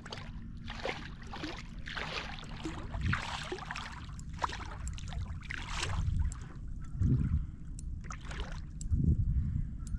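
Water splashing and lapping against a kayak hull in irregular washes, with a few light ticks and some low knocks in the last few seconds.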